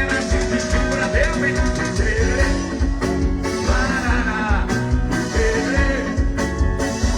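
Live axé band playing through a trio elétrico's sound system: a passage between sung lines, with a steady bass and drum beat under melodic lines that bend in pitch.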